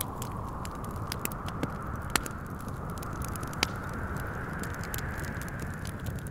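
Wood fire crackling with many small scattered pops, two sharper pops standing out in the middle, over a steady rush of wind that slowly swells and eases.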